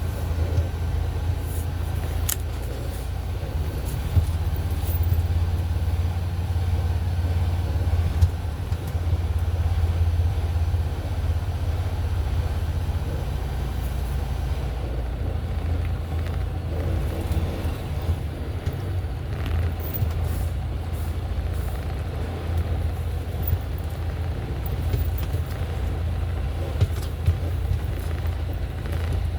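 Semi truck's diesel engine running steadily with road noise, heard from inside the cab as a constant low drone, with a few brief sharp clicks or rattles.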